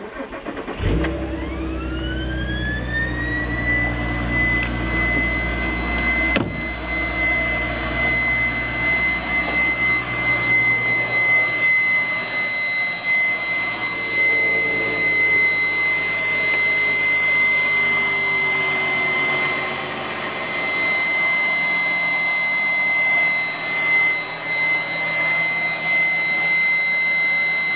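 Volkswagen Mk5 R32's 3.2-litre VR6 starting and settling to idle, with a whine that rises in pitch for a few seconds after the engine catches and then holds one steady high pitch. The owner finds the whine strange and louder than it should be.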